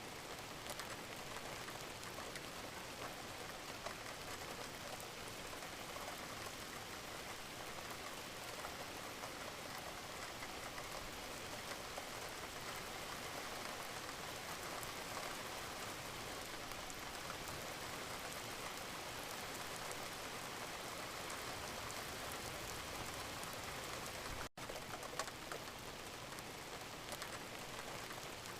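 Gentle rain falling steadily, an even hiss of rain with scattered individual drop ticks. It briefly cuts out for a split second about 24 seconds in.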